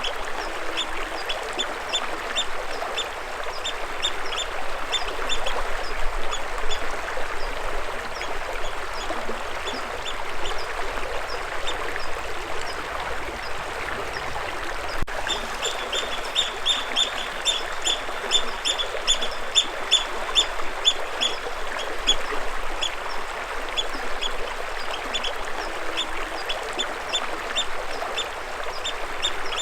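Water flowing in a steady rush, with a bird calling over it in quick runs of short, high chirps, several a second. The chirps come in bursts, thickest about halfway through and again near the end.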